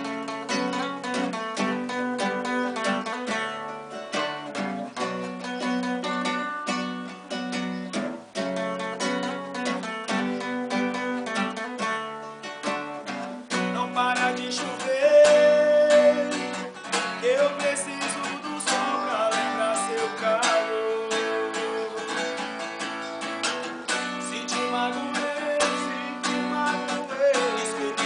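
Acoustic guitar playing an instrumental passage of a sertanejo love song, the strings picked and strummed in a busy, steady run of notes.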